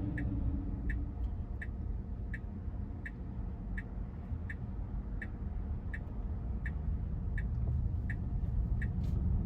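A car's turn-signal indicator ticking evenly, a little over two clicks a second, over low road and cabin rumble inside the car.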